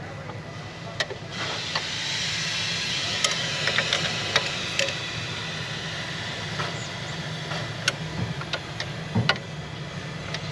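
Short metallic clicks and taps of a wrench on the fuel-line fitting of a diesel injector as the line nut is snugged down by feel, over a steady low hum. A hiss comes up about a second in and fades out around the middle.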